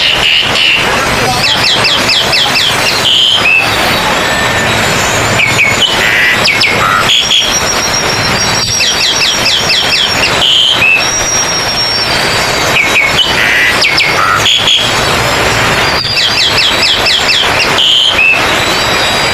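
Oriental magpie-robins (kacer) singing loudly: fast whistled trills and sharp chirps over a steady dense background noise. The same run of phrases comes back about every eight seconds, as in a looped contest recording.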